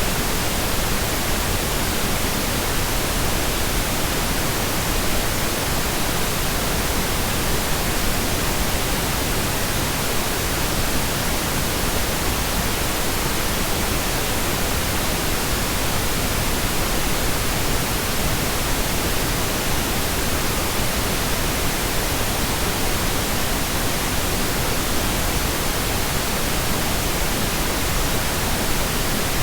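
Steady synthetic pink noise: an even hiss spread across all pitches, weighted toward the low end, with no changes.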